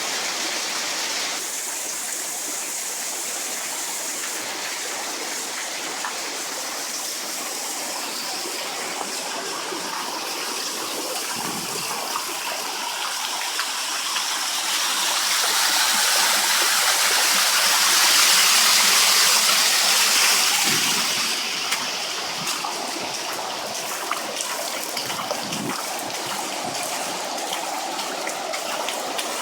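Floodwater rushing in a steady hiss, swelling louder for several seconds in the middle and dropping back abruptly about two-thirds of the way through.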